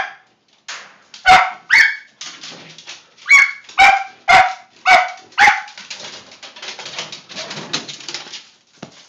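A dog barking in sharp single barks: two, then a run of five about half a second apart. After that comes a few seconds of quieter scuffling, rustling noise.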